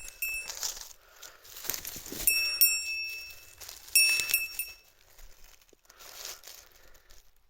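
Small metal bell jingling in short bursts, three times, over the rustle and crunch of undergrowth underfoot.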